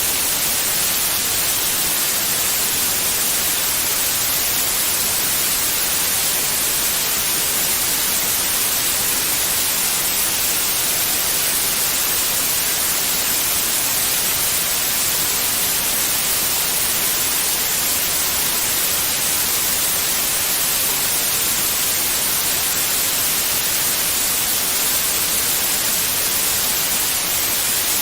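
Steady white noise: an even, hissing static with no pitch and no change in level.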